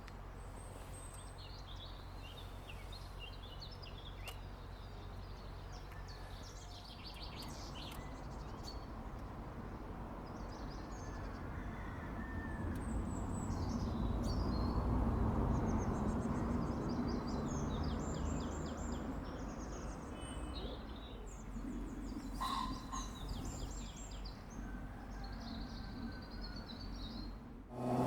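Small birds chirping and singing over a steady low hum. In the middle, a broad rumble swells for several seconds and then fades.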